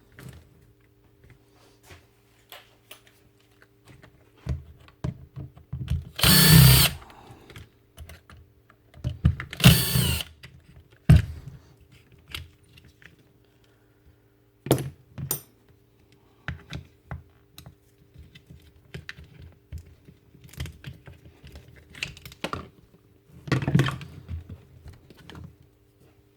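A cordless screwdriver running in short bursts to back out screws while a power tool is taken apart: two runs of about a second each, a shorter one near the end, and small clicks and clatter of screws and plastic housing parts being handled in between.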